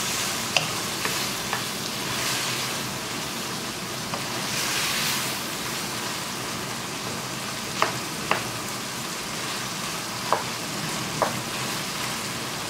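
Boneless chicken strips sizzling in hot oil in a wok while being stirred with a wooden spatula, a steady frying hiss with a few sharp clicks scattered through it.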